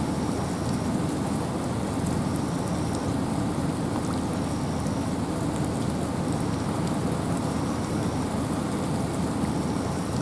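Steady rain and wind in a forest: an even, dense hiss with a heavy low rush and scattered drops ticking on top.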